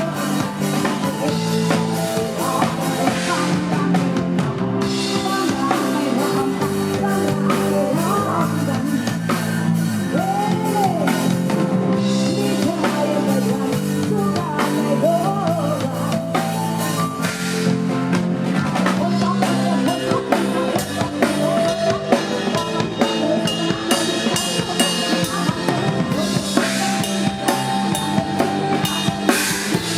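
Live Isan band music played loud through a sound system, with a drum kit keeping a steady beat under bass and a gliding lead melody.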